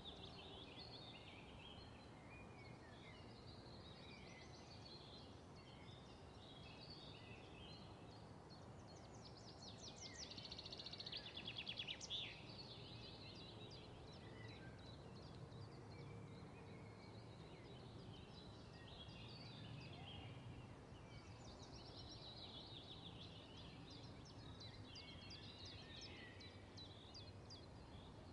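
Faint birdsong: small birds chirping and trilling over a low background hum, with fast rattling trills about ten seconds in and again past the twenty-second mark.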